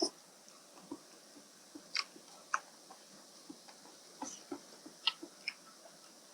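A person chewing and eating soft rice noodles in a fish curry sauce, with small wet mouth smacks and clicks coming a few times a second.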